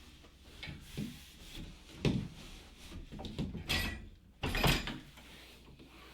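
Folding table being handled and set up: a series of knocks and clatters, with the loudest hits about two, three and a half, and four and a half seconds in.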